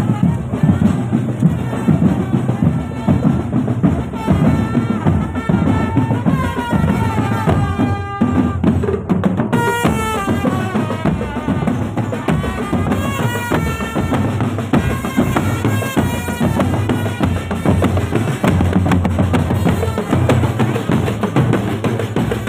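Marching drum band playing: a dense, steady beat of bass and snare drums under a stepping melody line, which moves higher and brighter about ten seconds in.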